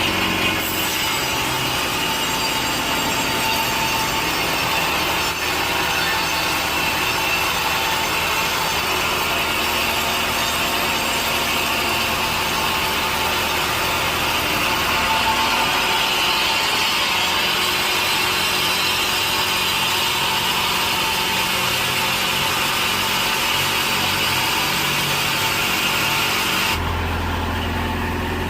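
Sawmill saw cutting steadily through a log. Near the end the cutting stops and a lower, steady machine hum is left running.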